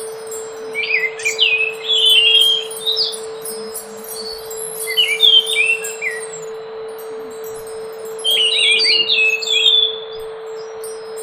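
Scaly thrush singing: three phrases of quick, chopped whistled notes with short pauses between them, over a steady low hum.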